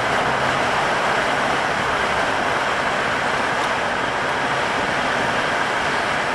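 Steady road and tyre noise inside a moving car's cabin.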